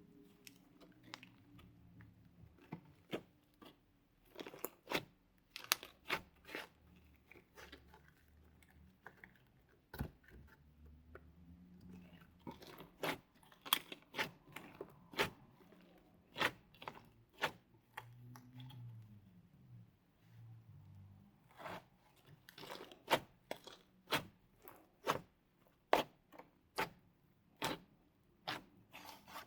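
Slime mixed with clay being squished and folded by hand, with irregular sharp pops and clicks of trapped air, about one or two a second.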